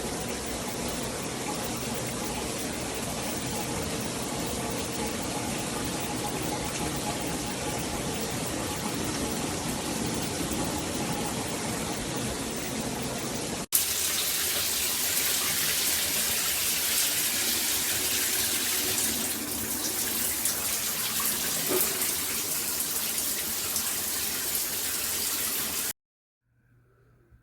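Water spraying steadily from a shower head. About halfway through, the spray changes abruptly to a brighter, hissier sound, and near the end it cuts off suddenly.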